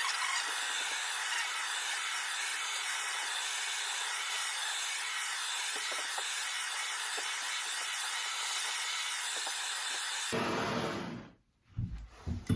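Handheld torch flame hissing steadily as it scorches a wooden axe handle, then shut off about ten seconds in.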